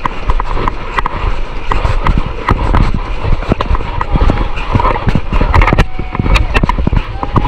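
Rough-water noise on a camera out on the waves: a heavy low rumble of wind and water with many irregular knocks and slaps.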